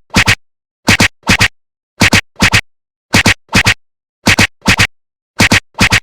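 Train wheels clacking over rail joints: a double clack, the two hits about half a second apart, repeating about once a second in an even rhythm, with dead silence between the pairs.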